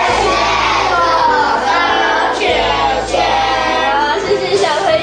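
Music with voices singing.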